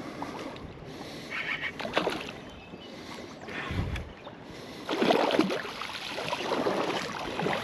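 Water sloshing and splashing as a small rock bass is played and brought in by hand line and rod, louder for a moment about five seconds in, with a brief low thump just before.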